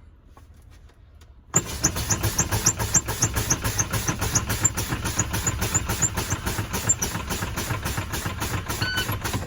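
A loud, rapid, regular pulsing noise in a truck cab starts about a second and a half in, while the air brakes are being pumped down. Near the end the truck's low-air warning buzzer starts beeping, which signals that air pressure has fallen to about 60 psi.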